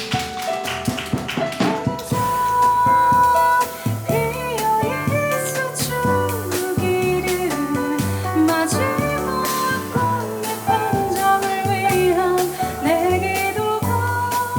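Live jazz band of piano, double bass and drums playing, with a walking bass line, cymbal and drum strikes, and a melody line that slides and wavers in pitch like a voice.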